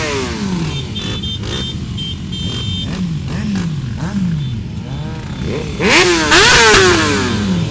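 Motorcycle engines going by in a steady low rumble, with riders blipping the throttle now and then. About six seconds in, a loud rev climbs and then falls away.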